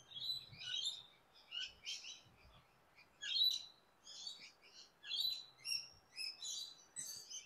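Birds chirping: many short, high calls one after another, some overlapping.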